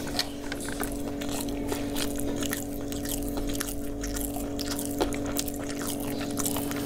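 A person chewing a mouthful of biryani rice up close: many small, wet mouth clicks and smacks, over a steady low hum.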